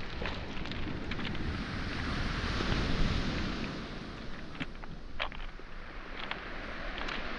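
Waves washing onto a pebble shore, swelling about two to three seconds in, with scattered clacks of footsteps crossing pebbles and small boulders.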